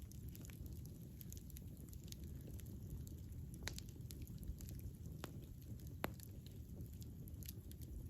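Campfire burning with a low steady rumble and irregular crackles and pops. A few sharper snaps stand out, the loudest about six seconds in.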